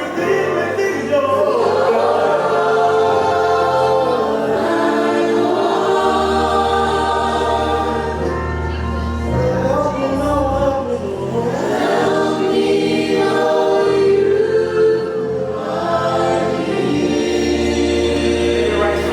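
Live gospel worship music: a choir or group of singers holding long sung lines over sustained bass and keyboard chords.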